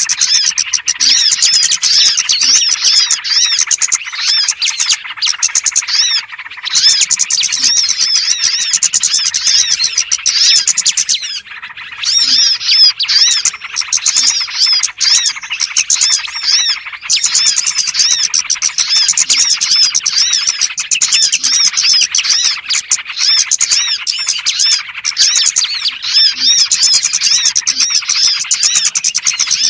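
A lure-call recording of many small birds chirping and trilling at once: a busy, unbroken chorus of quick, high, overlapping notes, played to draw small birds in.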